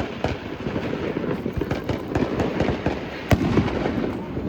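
Fireworks going off: a dense run of crackling pops and bangs, with one louder bang about three seconds in.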